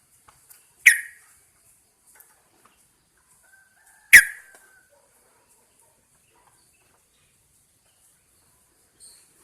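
Yellow-vented bulbul giving two short, sharp calls, about a second in and again about three seconds later, with faint chirps in between.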